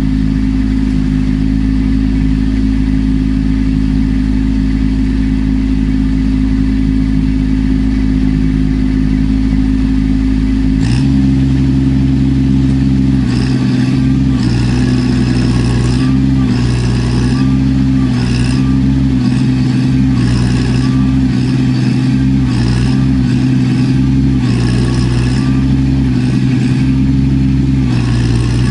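Kubota B2650 compact tractor's three-cylinder diesel engine running steadily, then revving up about eleven seconds in. After that a higher hissing noise comes and goes about once a second while the engine note wavers.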